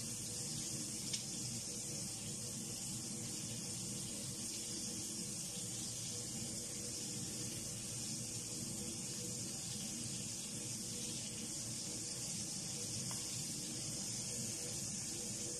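Seafood pieces sizzling in hot oil in a wok, a steady even hiss with one faint click about a second in.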